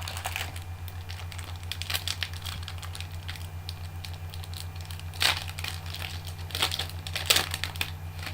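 Trading cards and their pack wrapping being handled: quick clicks of cards flicked one behind another, mixed with crinkling, with a few louder crinkles about halfway and near the end. A steady low electrical hum runs underneath.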